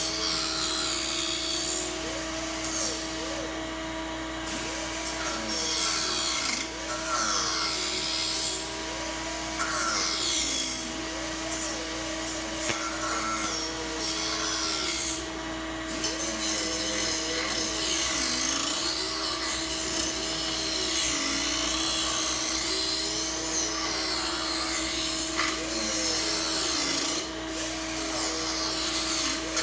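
Hand sanding and rasping on the kit plane's horizontal tail ribs and skins: repeated scraping strokes that come and go. A steady hum and a wavering tune run underneath.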